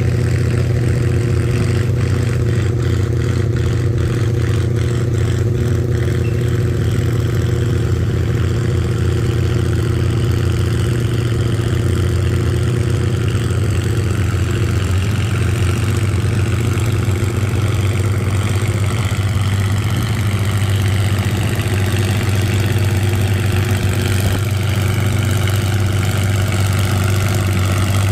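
Antique farm tractor engine running steadily and loudly, a constant low drone with no break.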